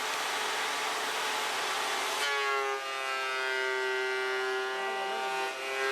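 Electric benchtop wood planer running. It makes a loud rushing noise while cutting a board, and about two seconds in it changes to a steady high whine as it runs free with no wood in it.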